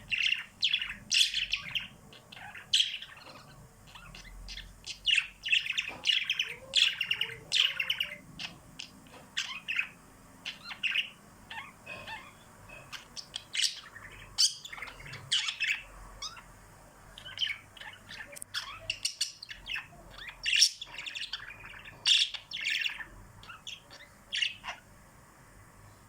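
Small pet birds chirping and tweeting in quick, repeated bursts of short high calls, with brief pauses between clusters; the calls stop near the end.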